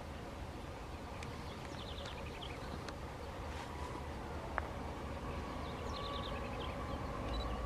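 Quiet countryside ambience with a low rumble and a few short bird trills. In the second half, a faint steady hum from the distant approaching train's diesel locomotive slowly grows louder.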